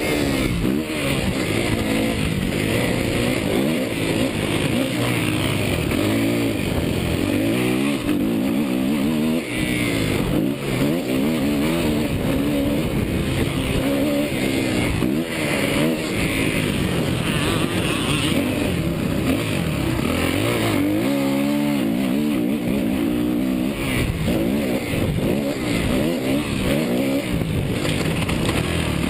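Motocross bike engine revving hard, its pitch climbing and dropping over and over as the throttle opens and closes, over a steady rush of noise.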